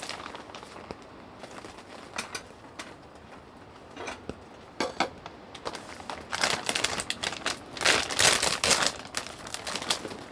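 Crinkling and rustling of something being handled, with scattered clicks and a louder, denser stretch of rustling about six to nine seconds in.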